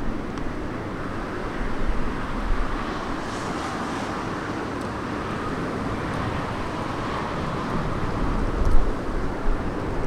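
Steady jet noise from a Boeing 777 landing, with gusty wind buffeting the microphone in uneven low rumbles that swell and fade, strongest near the end.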